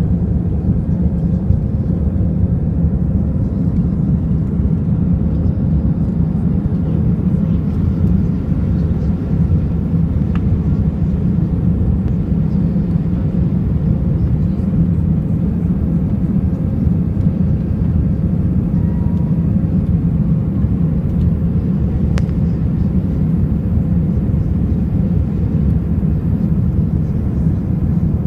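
Jet airliner cabin noise: a steady low rumble of engines and rushing air, with a faint steady hum running through it.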